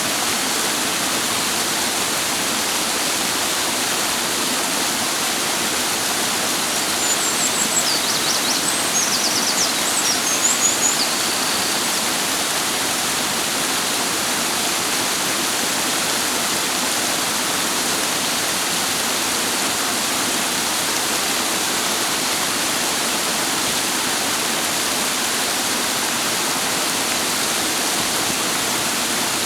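Clear mountain stream water rushing steadily. A bird sings a short run of quick, high notes about seven to eleven seconds in.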